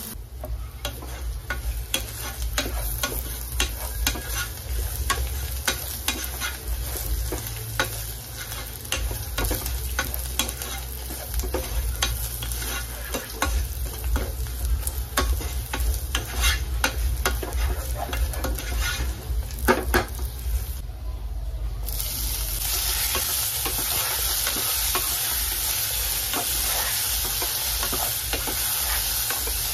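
Wooden spatula stirring a tempering of cumin, curry leaves, green and dried red chillies sizzling in oil in a nonstick pan, with many quick scrapes and taps of the spatula. About twenty seconds in the sound drops briefly, then a steadier, louder sizzle takes over as chopped tomatoes fry in the oil.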